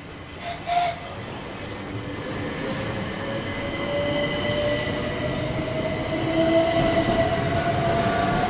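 Class 375 Electrostar electric multiple unit moving through the station, growing steadily louder, with a motor whine that rises slowly in pitch over the rumble of the wheels. A brief sharp sound comes just under a second in.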